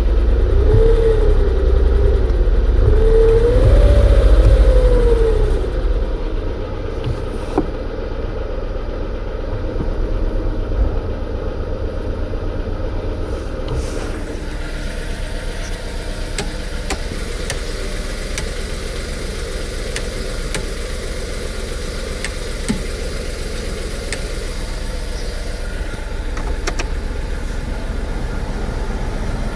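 Car engine revved twice, its pitch rising and falling each time, then settling into a steady idle.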